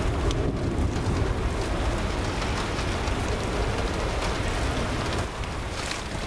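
Heavy rain falling, with many separate drops ticking close to the microphone, over a steady low rumble of an airliner's jet engines on the taxiway.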